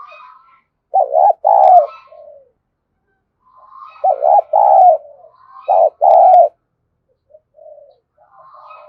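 Spotted dove cooing in three loud phrases, about a second, four seconds and six seconds in, each a couple of short coos followed by a longer one, used as a lure call to draw wild doves. Fainter bird calls sound between the phrases.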